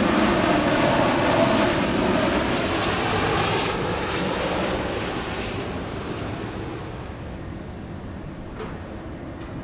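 Jet airliner passing overhead: a loud, even rushing roar that fades steadily as the aircraft moves away.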